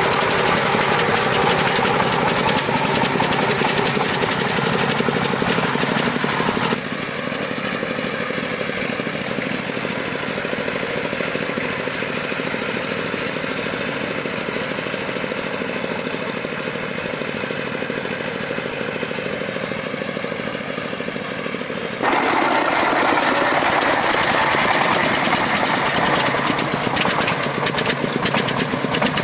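Farm truck's engine running steadily with a knocking, chugging note. The sound changes abruptly twice: it drops quieter and duller about seven seconds in, then jumps back to full loudness about twenty-two seconds in.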